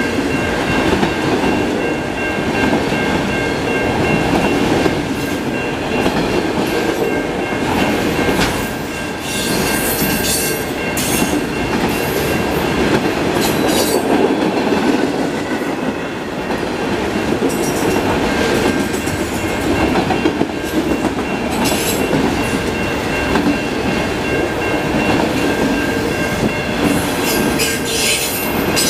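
Autorack freight cars rolling steadily past: steel wheels rumbling on the rail, with clusters of clicking as the car trucks pass over rail joints at about 10, 14 and 28 seconds in. A thin, steady, high-pitched wheel squeal runs under the rumble.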